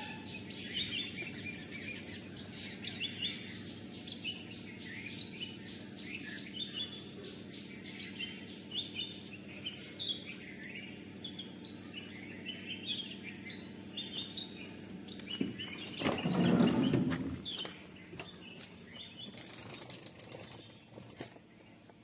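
A sunbird chirps over and over in short high notes. About three quarters of the way through comes one loud, close flurry of rustling, with a steady thin high whine underneath throughout.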